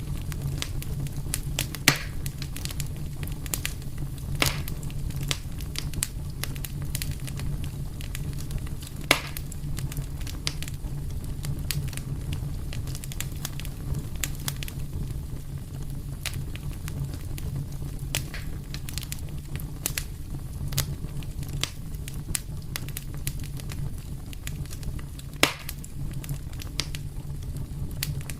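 Fireplace fire crackling steadily, with dense small crackles and four louder pops, over a steady low rumble.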